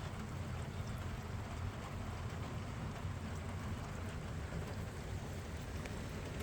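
Steady rain falling, an even hiss with faint scattered drip ticks.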